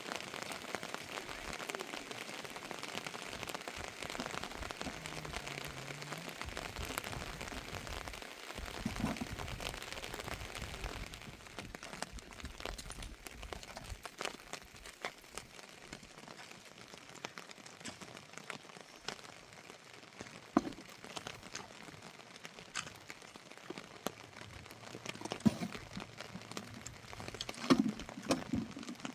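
Rain falling, an even hiss that thins out after about ten seconds, with scattered sharp clicks and knocks.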